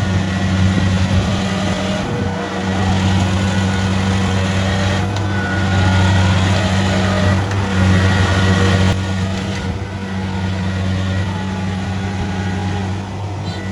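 Kubota rice combine harvester's diesel engine running steadily at an even speed, with a faint thin whine above the low engine hum.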